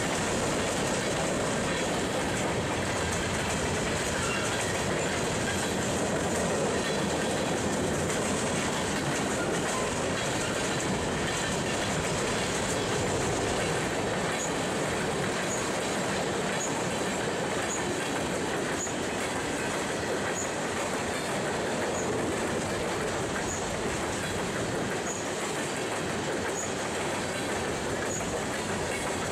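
Covered hopper cars of a long freight train rolling past close by: a steady rumble of steel wheels on the rails with clickety-clack.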